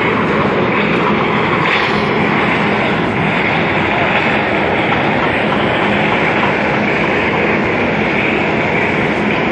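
Flat wagons of a rail-carrying departmental material train rolling past close by: a steady noise of wheels running on the track.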